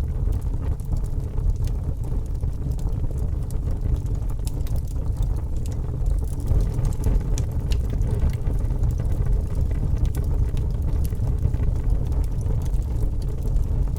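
Log fire burning in a fireplace: a steady low rumble of the flames with scattered small crackles and pops.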